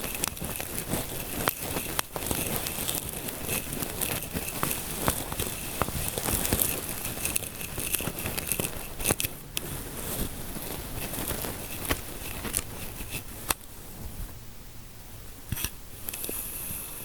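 Fingertips scratching and rubbing close to the microphone for a scalp massage: a continuous crackly, scratchy rustle with scattered sharp clicks, thinning out and getting quieter about 14 seconds in.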